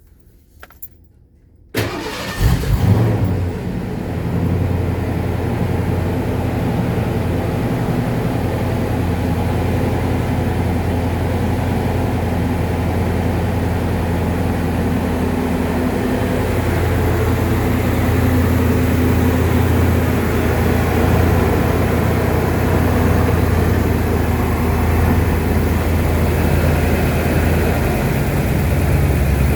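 A 1988 Ford Thunderbird's engine cranks briefly and catches about two seconds in, then settles into a steady idle. It is a cold start after the car has sat unused for over a year.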